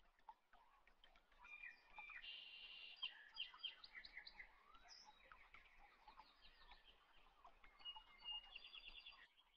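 Faint bird chirps and short trills, busiest in the middle, with a quick repeated trill near the end.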